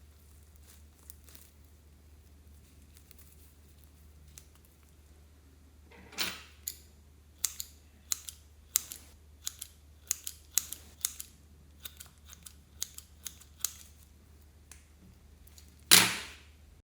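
Slime being worked by hand: faint crackles at first, then sharp popping clicks about twice a second, and one loud pop near the end.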